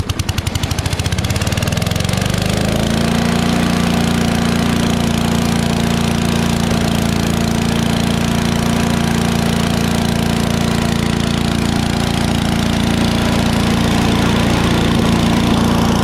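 Craftsman chipper shredder's 8 horsepower Briggs and Stratton engine just after starting with the choke off, its firing speeding up over the first two to three seconds and then running steadily at speed, the first run in years on fresh oil, gas, plug and air cleaner.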